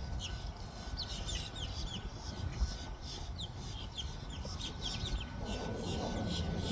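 Birds calling: many short, quick downward-sliding chirps, several a second, over a low rumble and a faint steady high whine.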